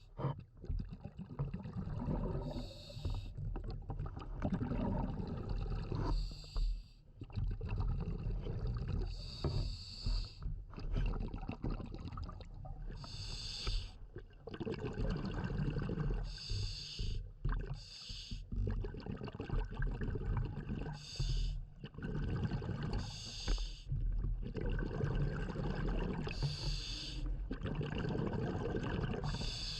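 Underwater breathing through a scuba regulator: a short hiss of breath about every three seconds, with a low rumbling, gurgling noise of bubbles between.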